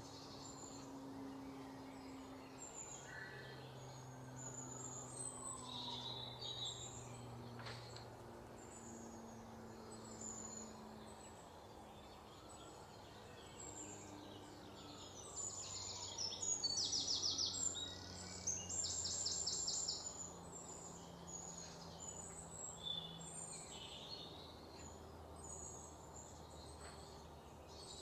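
Birds chirping, with short high calls throughout and the loudest rapid trills of repeated notes about halfway through, over a faint low steady hum.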